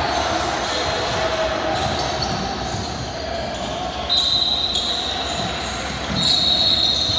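Basketball game sounds in a gym: a ball bouncing on the hardwood and sneakers squeaking sharply on the court, about four seconds in and again near the end, over a background of echoing crowd voices.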